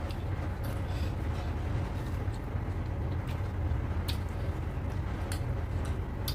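Close-up eating sounds of chewing luchi and mutton curry: a handful of short, sharp mouth clicks and smacks, spread irregularly, over a steady low rumble.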